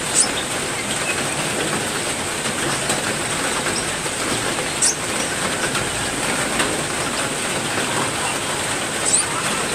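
Steady heavy rain, with three short high bird chirps: one at the start, one about five seconds in and one near the end.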